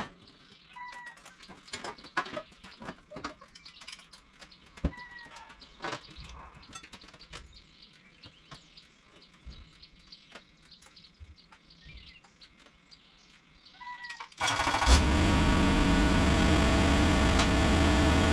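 A quiet stretch with scattered clicks and a few short bird chirps. About fourteen seconds in, a loud engine comes in abruptly and runs steadily.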